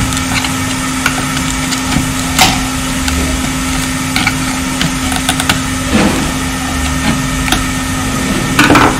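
Tools working at a glued part on a power-supply circuit board: a few sharp clicks and a scrape, the loudest near the end, over a steady electrical hum.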